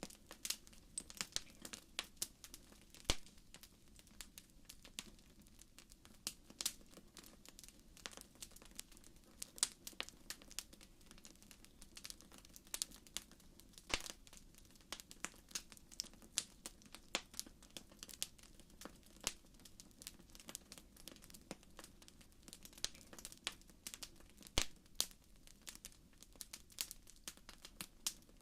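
Wood fire in a fireplace crackling: irregular sharp pops and snaps, several a second, over a faint hiss.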